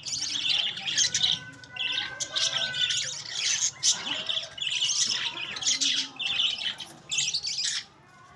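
A pet cage bird calling in quick runs of high, chattering chirps that stop a little before the end.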